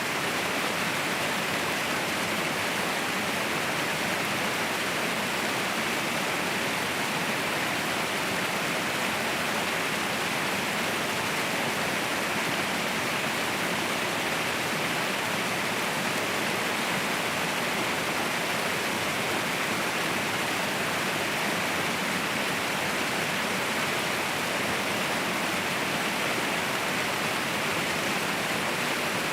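Waterfall rushing: a steady, unchanging roar of falling water.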